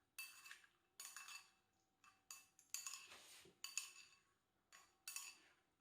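A utensil stirring raw rice mixed with chicken, vegetables and dashi in a pot, scraping and clinking against the container in about eight short, faint strokes.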